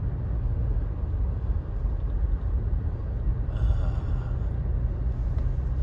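Steady low rumble inside the cab of a 2021 Toyota Tacoma driving through fresh snow: engine and tyres running at an even pace.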